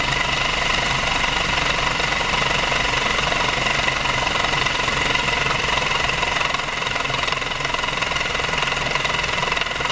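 Rocker V 35cc Stirling hot air engine running steadily with a fast, even mechanical clatter, coasting on the residual heat left in its hot cap.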